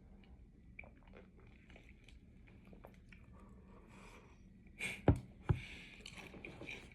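Chewing a mouthful of Honey Smacks cereal close to the microphone, with many small soft mouth clicks, then two sharp knocks a little after five seconds in.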